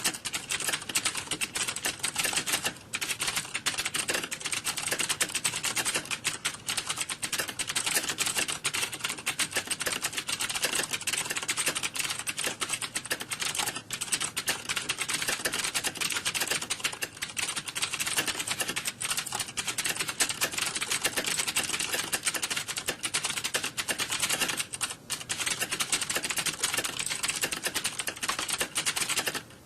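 Dense, continuous clatter of many computer keyboards being typed on at once, the keystrokes overlapping into a steady stream with a couple of brief lulls. It is the sound of a room full of people typing, like a typing-test exam hall.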